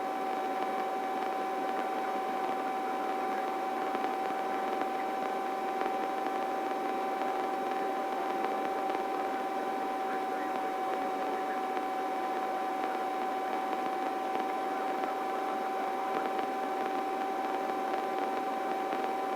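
Helicopter cabin noise heard through the crew intercom: a steady whine with one high held tone over an even hiss, with the low end cut off.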